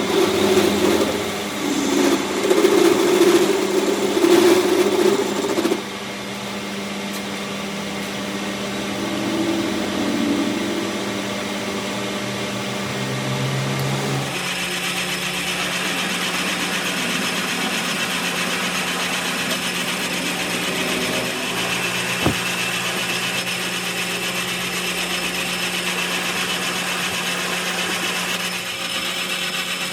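A workshop machine or power tool working metal, running with a steady hum. It is louder and uneven for the first six seconds, and picks up a brighter, hissing edge about halfway through.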